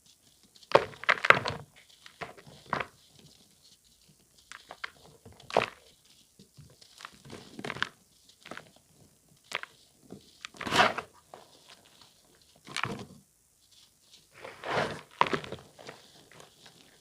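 A reformed block of pressed charcoal powder being crushed, giving a series of separate dry crunches with short pauses between them. The loudest are about a second in and near the middle.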